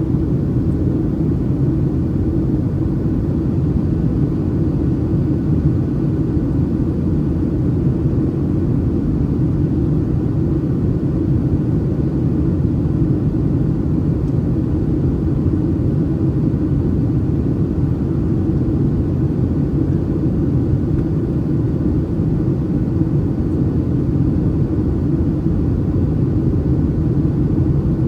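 Steady cabin drone inside a Boeing 737-800 in flight: the CFM56-7B engines and airflow heard from a seat over the wing, a deep, even noise with no changes.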